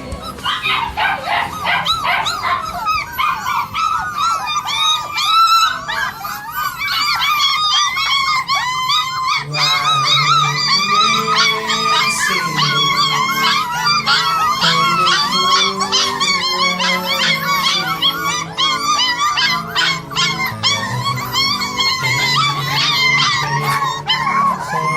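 A litter of Phu Quoc puppies whining and yelping together in a dense chorus of overlapping high whimpers. A lower, steadier tone joins about ten seconds in.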